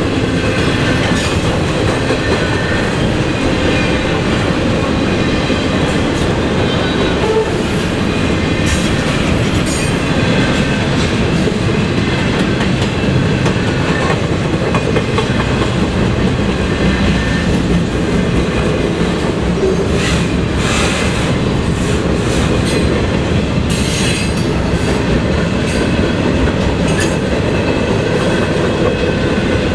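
Freight train cars rolling past at close range: a steady rumble of wheels on rail with irregular clicks over the joints and faint wheel squeal.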